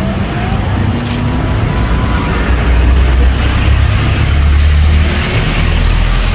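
Road traffic close by: a motor vehicle's engine rumbling steadily, a little louder in the middle.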